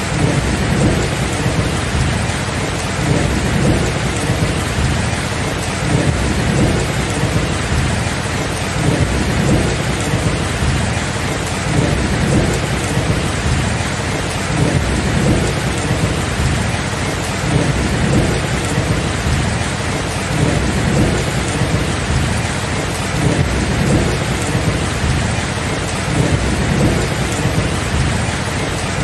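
Steady rain with thunder rumbling continuously underneath, the low rumble swelling and easing every second or two without any sharp claps.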